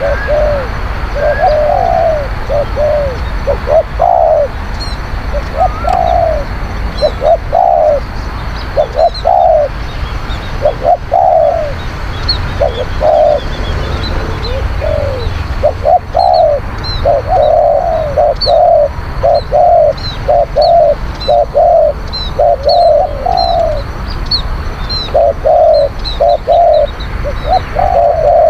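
Spotted doves cooing over and over, short notes in quick runs with brief gaps, a hard-calling decoy dove answering or challenging. Small birds chirp faintly and high in the background.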